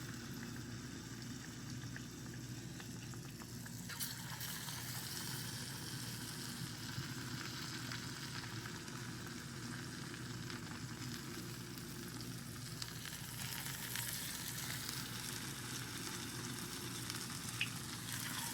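Besan-battered potato slices (bhajiya) deep-frying in hot oil, a steady sizzle with a brighter hiss from about four seconds in.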